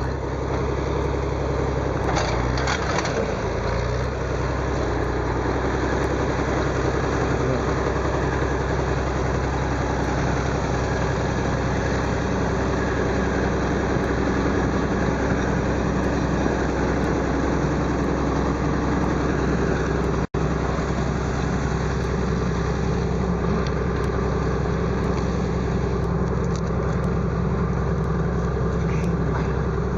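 Engine of a timber-hauling machine running steadily, with even low-pitched engine tones throughout as logs are dragged. The sound cuts out for a split second about two-thirds of the way through.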